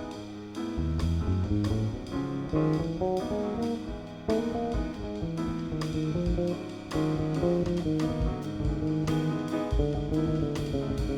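Instrumental jazz played by a small acoustic band: piano, double bass and drum kit.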